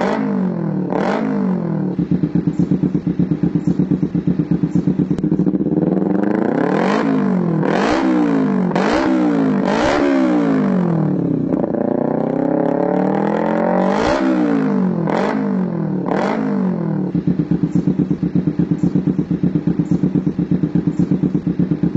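Motorcycle engine through an Akrapovic GP Lorenzo racing exhaust, idling with a pulsing beat and revved in short throttle blips: one near the start, a quick run of about four in the middle, and three more before it settles back to idle.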